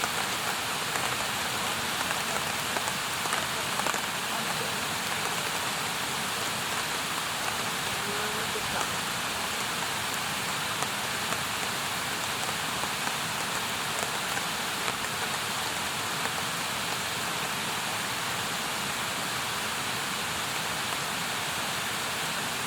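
Wood campfire burning: a steady hiss with scattered small crackles and pops.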